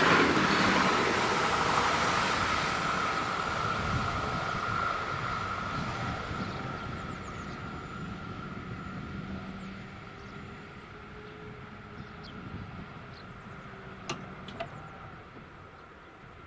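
Electric multiple-unit train running away from the crossing, its noise fading steadily with a lingering high whine. Partway through, the EEG-3 barrier drives hum as the booms rise, and two sharp clunks come about two seconds before the end.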